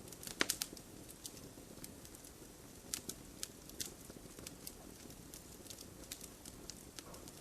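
Wood fire crackling in a fireplace: irregular sharp pops and snaps over a low steady rumble of flame, with a cluster of louder pops about half a second in and another near the three-second mark.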